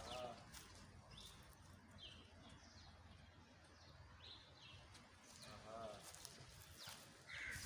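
Faint outdoor ambience with distant birds calling: scattered short chirps and a few brief calls over a low background hum.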